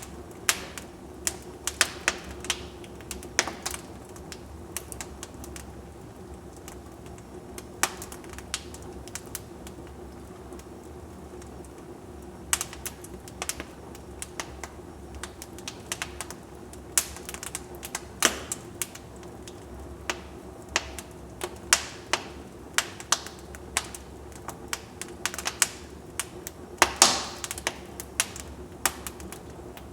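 Wood fire in a fireplace crackling: irregular sharp pops and snaps over a low steady rush of burning, with a denser run of loud crackles near the end.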